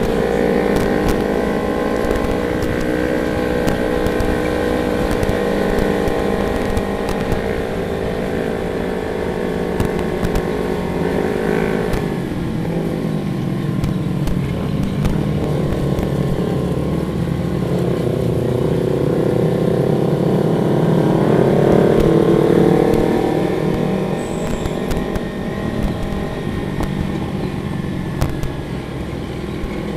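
Motorcycle engine running under way with wind noise, its pitch falling about twelve seconds in and rising again, loudest a little past the middle.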